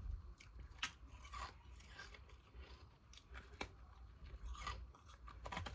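Ice being bitten and crunched between the teeth, with irregular crisp crunches and chewing.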